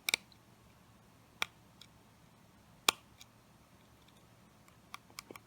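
Small, sharp clicks of hand tools and parts on an opened iPhone 7 as the pad under the volume-down button is pushed back into place: a few isolated clicks spaced over a second apart, then a quick run of small clicks near the end as the button starts clicking again.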